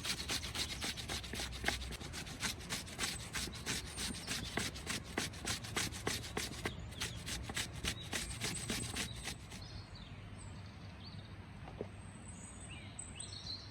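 Rhythmic rough scraping or rubbing strokes on wood, several a second, that stop about nine seconds in; after that, faint bird chirps over quiet outdoor background.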